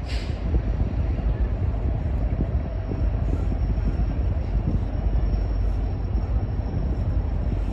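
BNSF coal train's hopper cars rolling past: a steady low rumble of steel wheels on the rails, with a faint high whine running through it.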